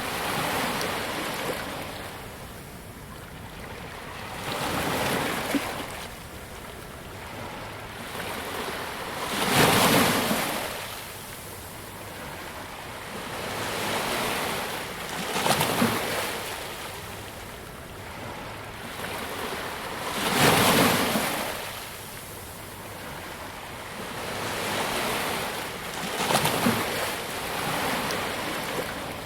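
Ocean waves breaking on a beach: a hiss of surf that swells and fades every five or six seconds, with the heaviest breaks about a third and two-thirds of the way in.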